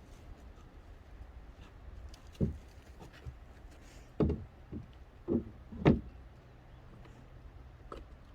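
Five dull knocks at uneven intervals, the last three about half a second apart.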